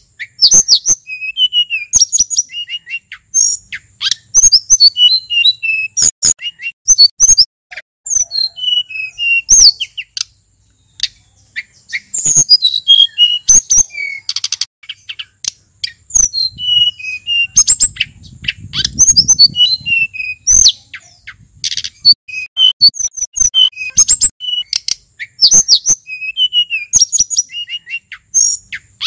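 Male sulingan gunung songbird singing a lively, varied song of short high phrases that slide up and down in pitch, delivered in quick bursts with brief pauses between them.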